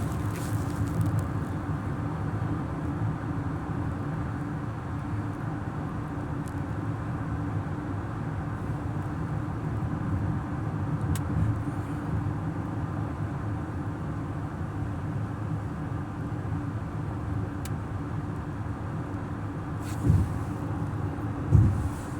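Road noise inside a moving car: a steady low drone of engine and tyres. Two short thumps come near the end.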